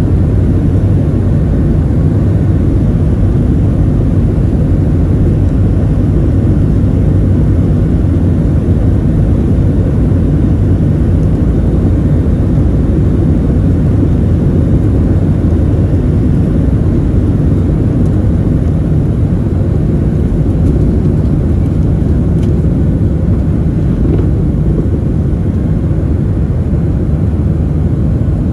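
Steady low rumble of a Boeing 737-700's CFM56-7B jet engines and airflow heard inside the passenger cabin in flight.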